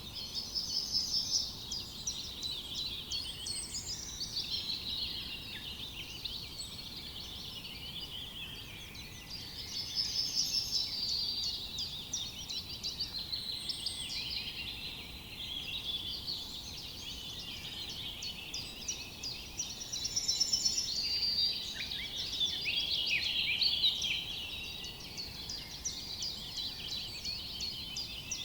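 A chorus of many small songbirds singing and chirping at once, overlapping trills and quick chirps coming and going in swells, over a faint steady hiss of forest background.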